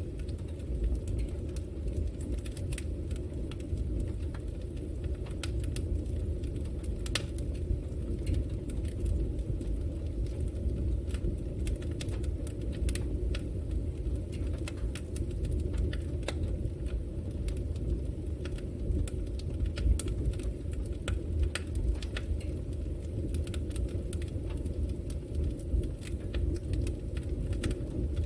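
Wood fire burning in a fireplace: a steady low rumble with irregular crackles and pops.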